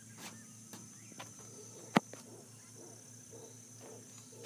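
Rainforest insects keeping up a steady high-pitched drone, with faint scattered calls and a single sharp click about two seconds in.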